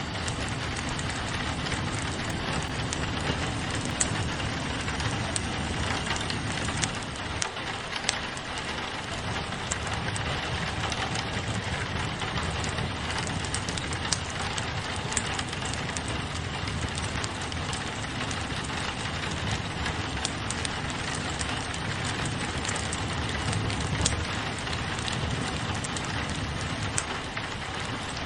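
Steady rain on a window mixed with a wood fire crackling, with scattered sharp ticks and pops over a constant hiss.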